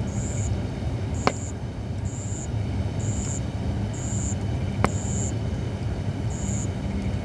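Holly firewood burning in a campfire, giving two sharp pops, about a second in and again just before the five-second mark, over a low steady hum. A short high-pitched chirp repeats about once a second.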